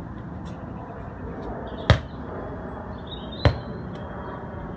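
Two sharp knocks, about a second and a half apart, from light strikes on a toy that sends a ball up a column when it is hit. The strikes are gentle, the 'normal days' level.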